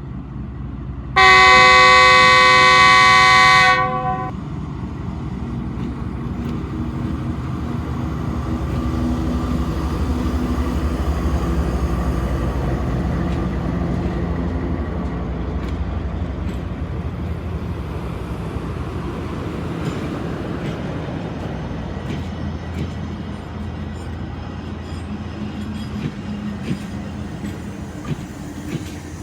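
Passenger express train's locomotive sounding one loud horn blast of about two and a half seconds, then the steady rumble of the train running past, loudest about ten seconds in and slowly fading, with a few sharp wheel clicks near the end.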